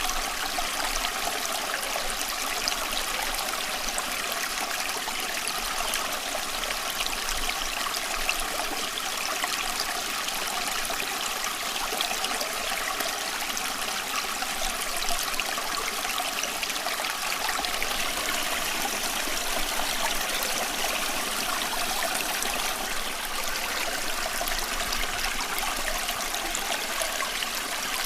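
Water running steadily over stones, a continuous stream-like rush with fine trickling and bubbling detail.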